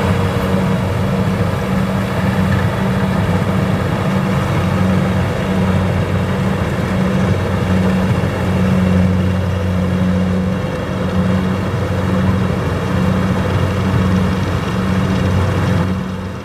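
Diesel engine of a farm machine running steadily at a constant speed, with a low, even hum.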